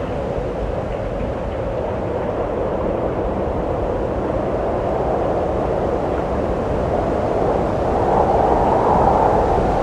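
Wind blowing steadily, a low rushing noise that grows a little louder near the end.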